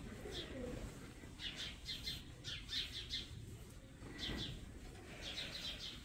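Birds chirping: many short, high chirps in quick clusters, with barn background noise beneath.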